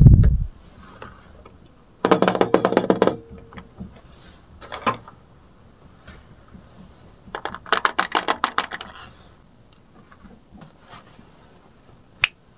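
Plastic toy kitchen pieces being handled: a low thump at the start, then two bursts of rapid clicking about a second long each, with a few single clicks between.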